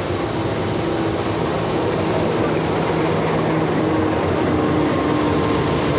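Siantar Ekspres passenger train running, a steady rumble with faint droning tones.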